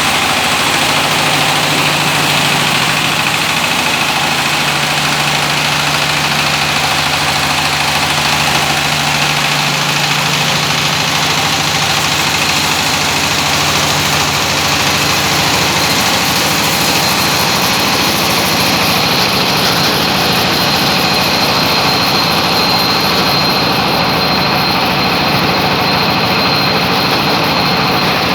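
12.5 kW diesel engine running steadily, driving a maize mill: a loud, even mechanical din with a steady high whine that grows slightly stronger in the second half.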